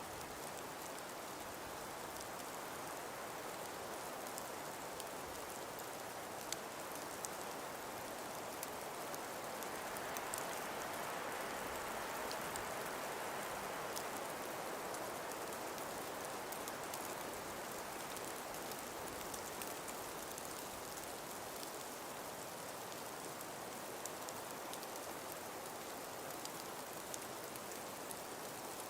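Steady wind hiss of a calm breeze, swelling gently in the middle and easing again, with faint scattered ticks throughout.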